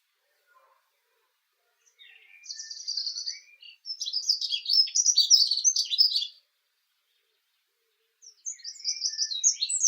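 A small songbird singing two loud, high-pitched song phrases of quick notes and rapid trills. The first runs about four seconds; the second starts near the end after a short pause.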